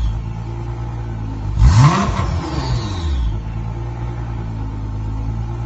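Nissan GT-R R35's twin-turbo V6 idling through an Armytrix valved aftermarket exhaust, blipped once in a quick rev about two seconds in that rises sharply and falls straight back to a steady idle.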